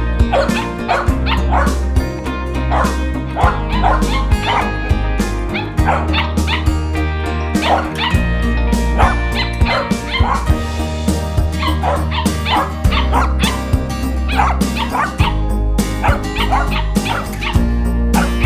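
Background music with a steady bass beat, and a corgi yipping and whimpering over it in quick short cries.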